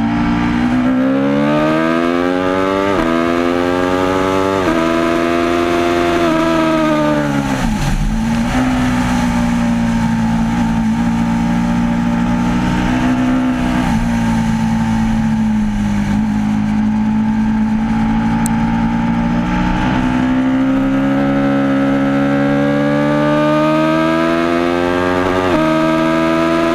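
Aprilia RSV4 APRC's 65-degree V4 engine pulling through the gears: its pitch climbs and drops back at upshifts about 3 and 5 seconds in. It falls away sharply about 8 seconds in, runs at a steady speed for some seconds, then climbs hard again with another shift near the end.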